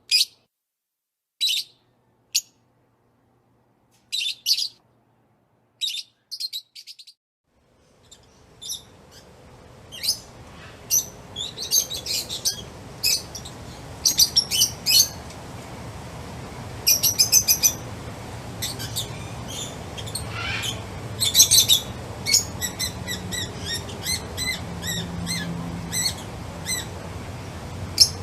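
Songbirds chirping in short, repeated phrases, first over a silent background. About eight seconds in, a steady background hiss comes up under them and the chirping grows busier, with several birds calling at once.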